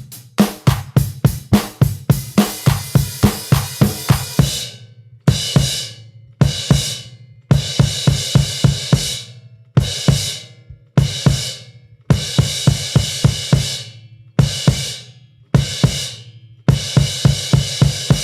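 Drum-heavy music: a fast run of drum hits, then a series of cymbal-crash accents with short gaps between them.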